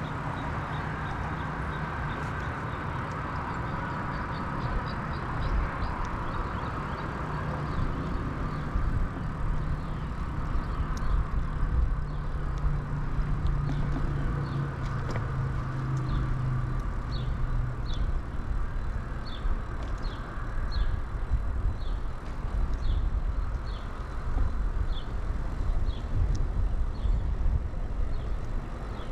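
Riding noise of a mountain bike on pavement: tyres rolling and wind rumble at a chest-mounted camera, with a steady low vehicle hum through the first half. From about halfway on, short high chirps repeat a little faster than once a second.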